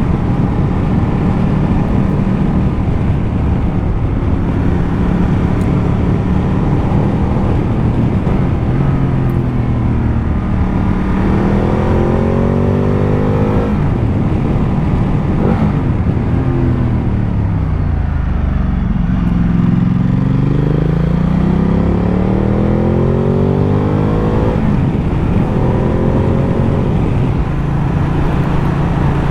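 Ducati Multistrada 1200's L-twin engine under way, its pitch rising as it accelerates and falling as it slows, several times over.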